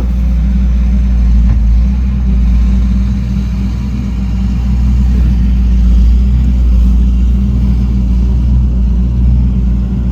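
An engine running steadily with a low rumble, its pitch holding level throughout.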